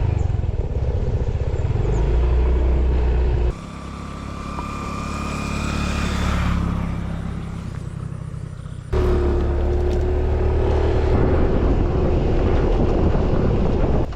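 A motor vehicle engine, most likely a motorbike, running while riding, with heavy wind rumble on the microphone. The sound changes abruptly twice, and in the middle stretch the engine pitch rises slowly.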